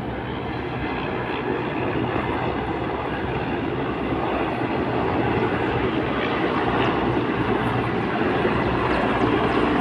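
Helicopter engine and rotor noise, a steady rumbling drone that grows slowly louder as it approaches.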